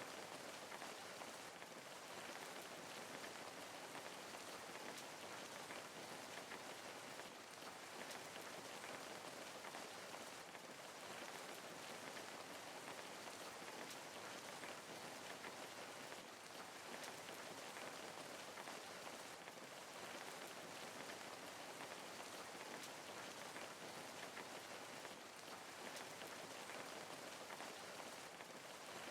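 Steady rain falling and pattering on a surface, an even hiss of many small drops with no breaks.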